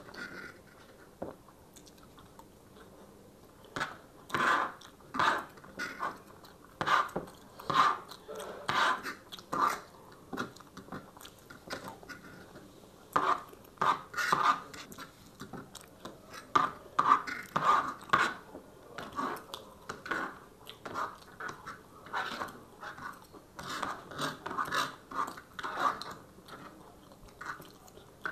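Close-miked chewing of chow mein noodles and chicken chilli, in irregular short bursts with brief pauses, with forks scraping and clicking against the serving tray.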